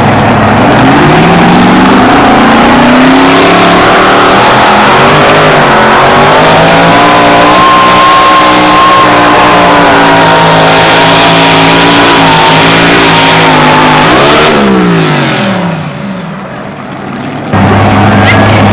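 Two-wheel-drive pulling truck's engine at full throttle down the track: its pitch climbs over the first several seconds, holds high and wavering, then drops steeply as the throttle comes off. After a brief quieter stretch, loud noise returns abruptly near the end.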